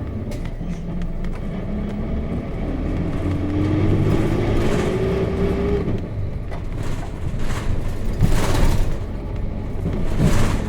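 Onboard sound of a 1998 Nissan Diesel KC-RM211GSN bus with its FE6 straight-six diesel engine pulling. The engine's pitch rises steadily for a few seconds as the bus accelerates, then falls away about six seconds in. Two loud rushing noises come near the end.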